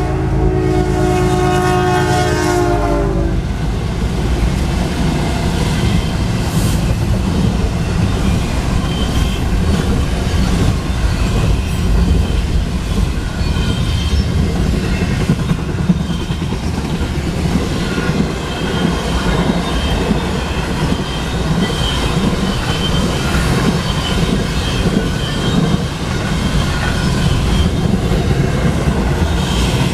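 A freight locomotive's multi-chime air horn sounding a chord that ends about three seconds in, its pitch dropping slightly as it cuts off. Then the cars of a fast intermodal freight train roll past, wheels clattering over the rails with a faint high wheel squeal in the later part.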